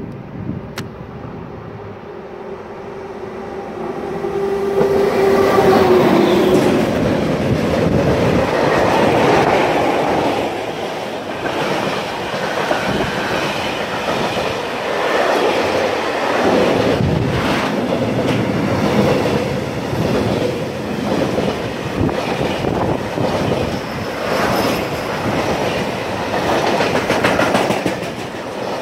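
Freight train approaching and passing close by: the locomotive's tone drops in pitch as it goes past about five seconds in, then a long line of flat wagons rolls by with the clickety-clack of wheels over rail joints.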